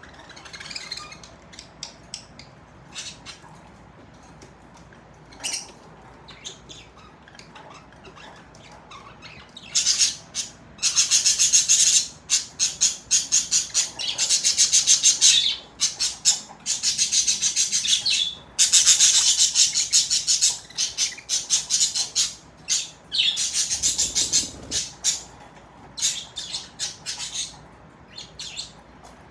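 Budgerigars chirping and chattering: scattered single chirps at first, then about a third of the way in, loud, near-continuous runs of rapid high-pitched warbling that thin out again near the end.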